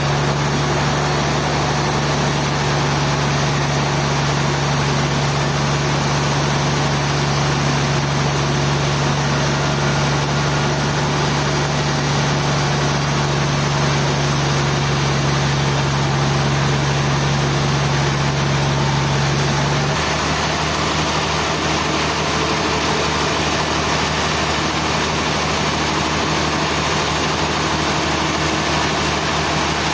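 Sawmill machinery running steadily, with a strong low hum over an even wash of noise. About twenty seconds in, the hum drops in pitch and the sound shifts, then carries on steadily.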